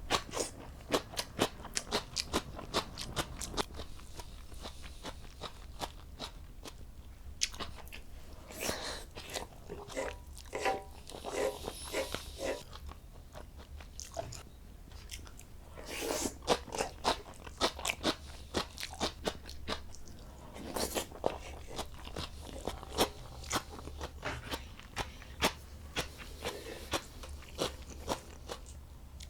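Close-up eating: a person biting and chewing crunchy food, many short crisp crunches coming in bursts with brief pauses between.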